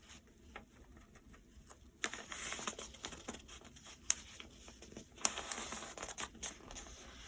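A sheet of paper being folded in half lengthwise and creased: quiet at first, then paper rustling from about two seconds in, with a few sharp crisp snaps as the fold is pressed down.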